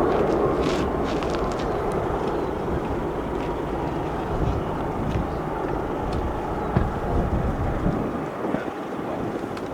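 Jet airliner engine noise: a steady rushing roar that slowly fades away.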